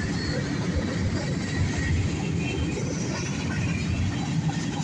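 Freight train cars (covered hoppers) rolling past close by: a steady low rumble of steel wheels on the rails.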